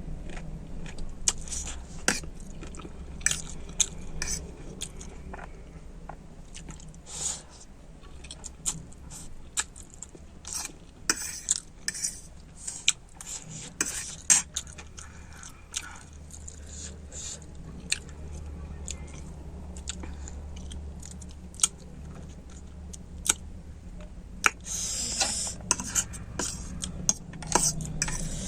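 Eating instant noodles: wet chewing with irregular sharp clicks of a utensil against the bowl.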